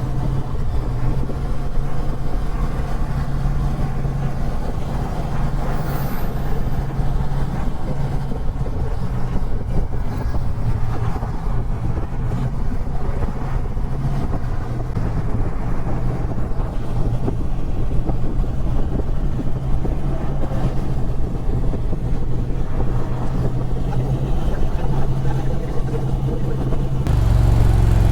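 Indian Challenger motorcycle's V-twin engine running steadily at highway cruising speed, with wind and road rush over the bike-mounted microphone. The engine and wind get louder about a second before the end.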